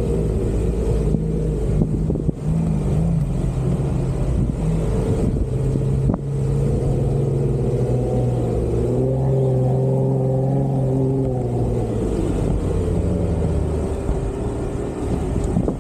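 Jeep Wrangler's engine running under load off-road, its pitch stepping up and down as it revs, over a deep steady rumble.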